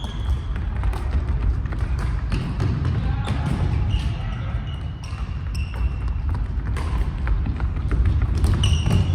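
Basketballs bouncing on a gym court, many short thuds, with brief high-pitched squeaks scattered through, the loudest near the end.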